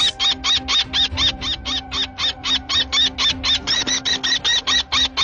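A bird calling in a rapid, even series of short high notes, about six a second, over a low steady hum.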